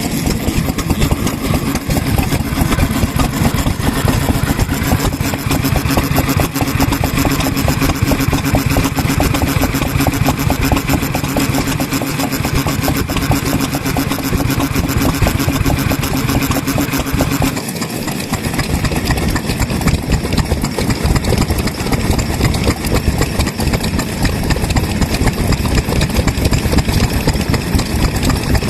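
Vintage Japanese stationary kerosene engines running steadily with a rapid, even firing beat. About 18 seconds in, a steady low hum drops out abruptly while the engine beat carries on.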